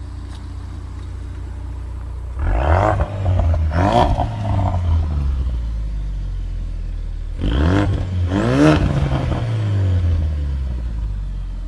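2016 Ford Focus RS's 2.3-litre turbocharged four-cylinder idling, revved in two bursts about five seconds apart, each climbing quickly in pitch and dropping back to idle.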